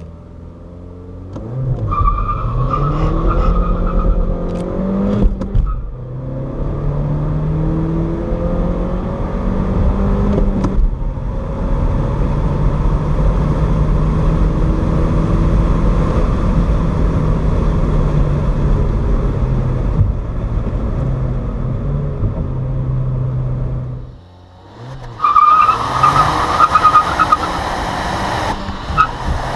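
2014 Audi A3 Cabriolet's 1.4 TFSI turbocharged four-cylinder engine accelerating hard from low revs. It climbs in pitch through two quick upshifts in the first ten or so seconds, then pulls steadily. Near the end it lets off briefly, and a loud rush of wind and road noise follows.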